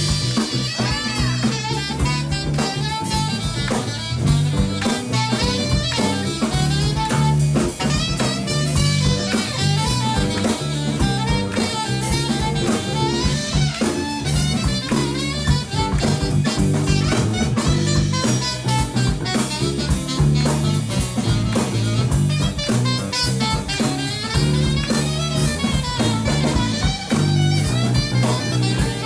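A live band playing a jazzy song, with a drum kit and saxophone.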